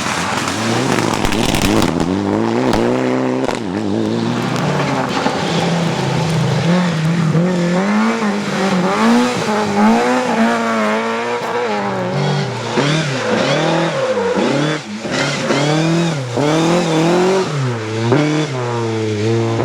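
Rally car engine at full throttle, its pitch climbing and dropping again and again as it is driven hard through gears and corners. There are a few sharp cracks about two seconds in.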